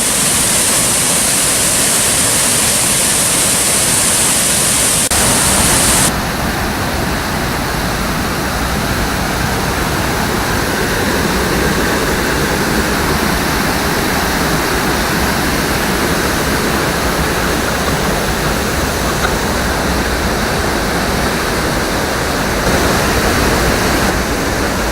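Jagala waterfall pouring, a loud steady rush of falling water. About six seconds in the sound changes suddenly and loses much of its high hiss.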